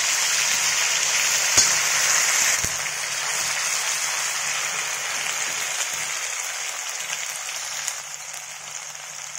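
Ginger-garlic paste sizzling in hot oil with fenugreek seeds in a kadhai, stirred with a spatula. The sizzle starts strong and slowly dies down, with a single sharp click about a second and a half in.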